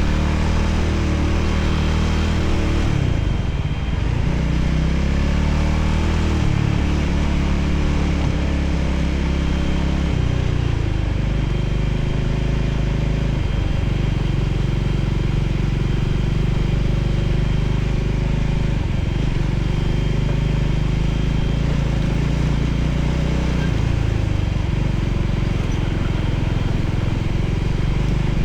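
Voge 300ACX motorcycle's single-cylinder engine running under way, its pitch stepping up and down several times as the rider changes speed, over a steady rush of wind noise.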